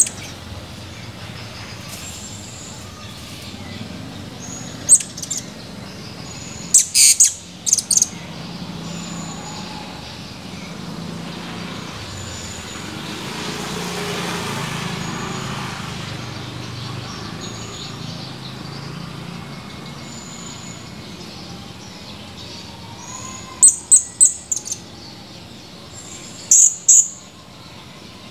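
Blue-crowned hanging parrot (serindit) giving short, shrill, high-pitched chirps in quick clusters of two to four, with fainter thin whistled notes in between.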